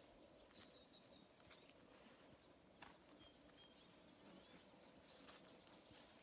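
Near silence in the open air, with a few faint, short bird chirps and occasional small clicks over a faint steady hum.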